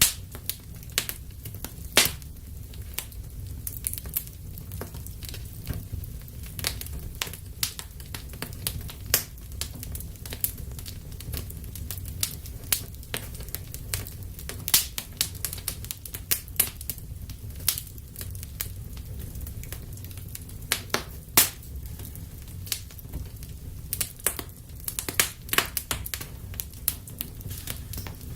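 Wood fire burning in a fireplace, crackling with irregular sharp pops over a steady low rumble of flames. A few pops stand out louder, about two seconds in, around the middle, and about two-thirds of the way through.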